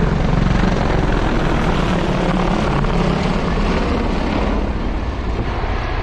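Military helicopter flying past with a loud, pulsing rotor beat that fades slightly toward the end.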